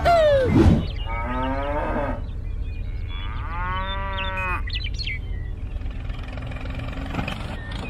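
A cow mooing twice, the second call longer, over a steady low engine hum.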